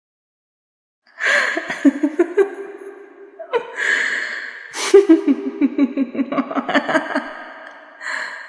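A woman's horror-style scream, shrill and stuttering with a rapid pulse, in two long stretches starting about a second in and again about three and a half seconds in, with a short final cry near the end.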